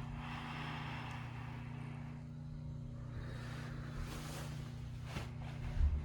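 Steady low hum and rush of school boiler-room machinery running, with a few light knocks and a short low thump near the end.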